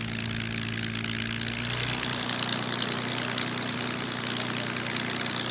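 Yakovlev Yak-3 fighter's piston engine and propeller running steadily, the engine note shifting about two seconds in.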